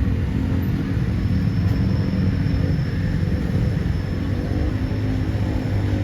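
A large engine running steadily, a continuous low rumble with a held pitch and no clear rhythm or knocks.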